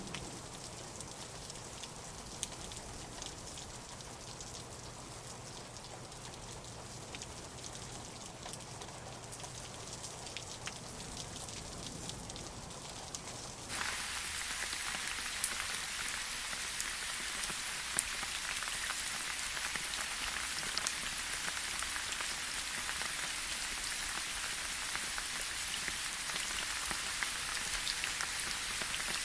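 Light rainfall: a steady hiss of rain with scattered individual drops ticking. About halfway through, the rain sound abruptly becomes louder and brighter, and stays that way.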